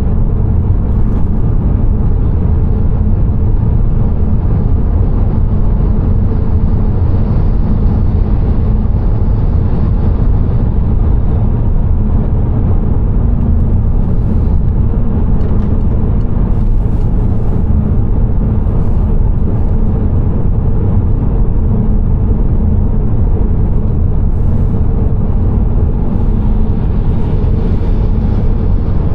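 A car driving along, a steady low rumble of road and engine noise.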